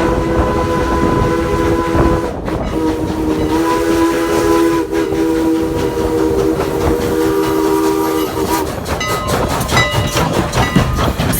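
Steam whistle of Strasburg Rail Road No. 89, a 2-6-0 steam locomotive, sounding a chord of several tones in two long blasts, the first ending about two seconds in and the second held until near the end. Then a quick run of sharp clicks and knocks from the moving train.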